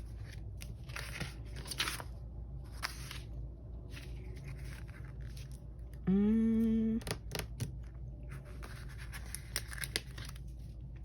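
Planner stickers and paper being handled at a desk: short papery rustles and the peeling sound of stickers coming off their sheet. A little over halfway through, a woman gives a short hummed "hmm" that rises in pitch.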